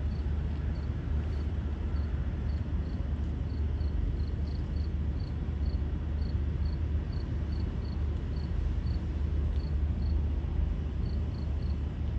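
A steady low rumble, the loudest sound, with a cricket chirping in short high pulses about two or three times a second.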